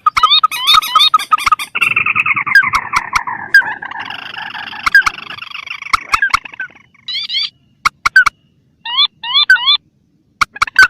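Lure recording of rail calls (swamphen and crake). Quick runs of short rising notes, with a denser chattering stretch in the first half. Later the calls come in short groups with silent gaps between them, and sharp clicks run throughout.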